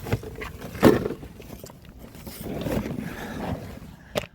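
A person moving around in a crawl space: knocks and scraping, the loudest knock about a second in and another short one near the end, with shuffling noise in between.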